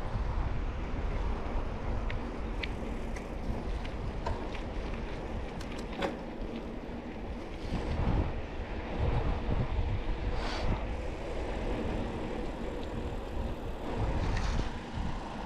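Wind buffeting the microphone over the steady rumble of mountain-bike tyres rolling along a forest road, with a few light clicks and rattles from the bike.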